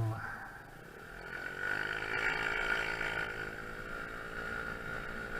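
Honda Zoomer 50cc four-stroke scooter engine running on the road: quieter for the first second, then picking up and rising in pitch as it accelerates, and holding a steady pitch.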